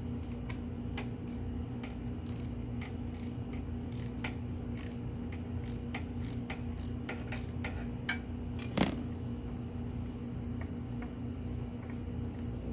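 Irregular light clicks and clinks of tools and parts being handled, with one louder clack about two-thirds of the way through, over a steady low hum.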